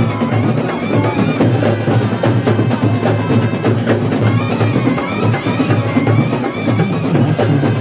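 Kerala temple percussion ensemble playing continuously: dense, fast drumming with a wavering high melody line running over it.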